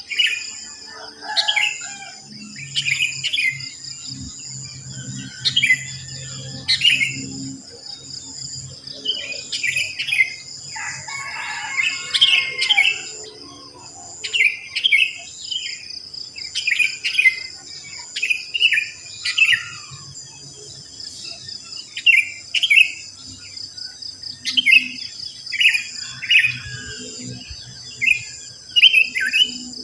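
Sooty-headed bulbuls (kutilang) calling in a morning chorus: short bubbling phrases repeated every second or so, over a steady high-pitched insect trill.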